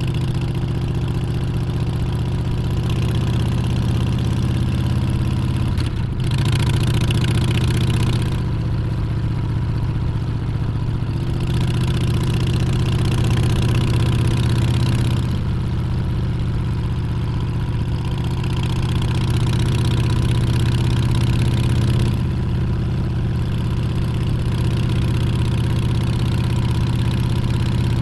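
Harley-Davidson Street Bob's Milwaukee-Eight 114 V-twin running under way on the road. Its steady low note shifts every few seconds as the throttle and load change, and a rushing hiss comes and goes alongside it.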